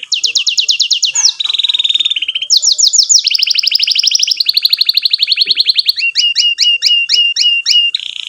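Canary singing a continuous song of rapid rolling trills that switch to a new phrase every second or so. A run of slower notes, each sweeping downward, comes in the last couple of seconds.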